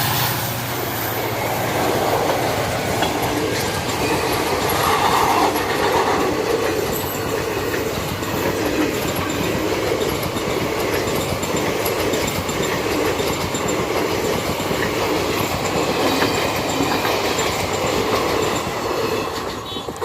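A train's coaches passing at speed: a steady loud rush with the wheels clicking rapidly over rail joints. A diesel locomotive's engine drone fades out in the first second, and the sound cuts off suddenly near the end.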